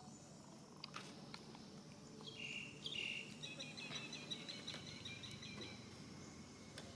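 High-pitched animal calls: two short held notes, then a fast run of short chirping notes about six a second that stops near the end.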